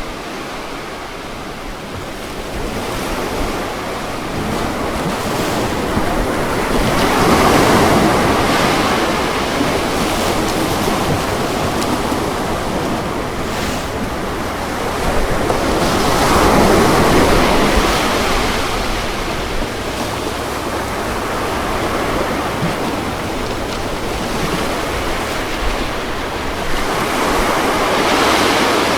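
Ocean waves breaking on a beach, a steady wash of surf that swells with three waves about nine seconds apart.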